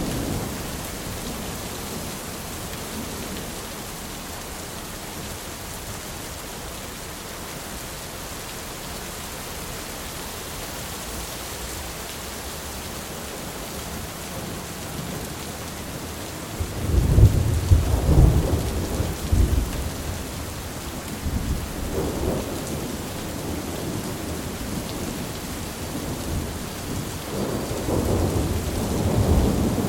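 Thunderstorm: steady rain with rolling thunder. A rumble dies away at the start, a loud roll of thunder comes about halfway through and rumbles on for several seconds, and another builds near the end.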